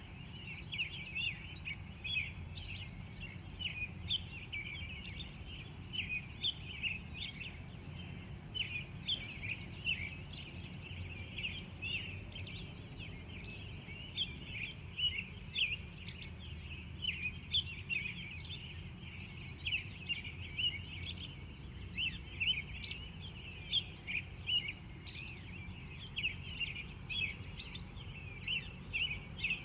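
Wild birds in a dawn chorus: many overlapping short chirps throughout, and a fast high trill about every ten seconds, over a steady high tone and a low steady hum.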